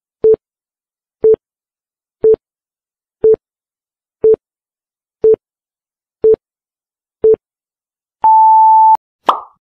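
Countdown timer sound effect: a short electronic beep once a second, eight times. A longer, higher beep sounds as the timer reaches zero, followed by a brief sharp sound that dies away quickly.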